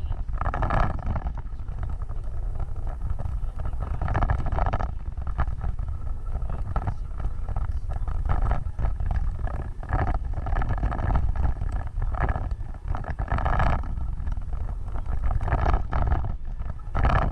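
Off-road vehicle driving: a steady low rumble of engine and running gear, with louder patches now and then.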